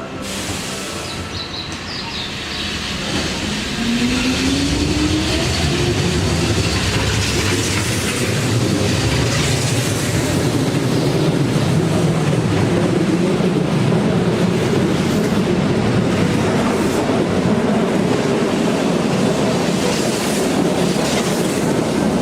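Keihan 8000 series electric train pulling out of the station and picking up speed: a motor whine rises in pitch over the first few seconds as the sound grows louder. It then settles into steady rolling noise, with wheels clattering over rail joints.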